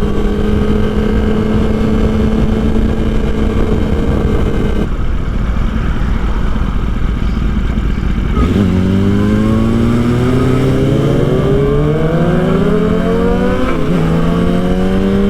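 Motorcycle engine on the move, holding a steady note at first, then falling away for a few seconds under dense wind rush. It then accelerates with a rising note, drops suddenly at a gear change about fourteen seconds in, and climbs again.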